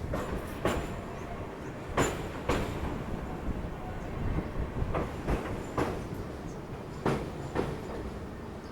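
Passenger train running at speed with a steady rumble, its wheels clacking over the rail joints in pairs about half a second apart, every few seconds.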